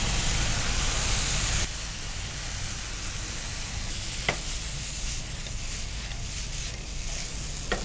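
Masala frying in oil in a pan, a steady sizzle that drops abruptly in level about a second and a half in. A single light click comes about four seconds in.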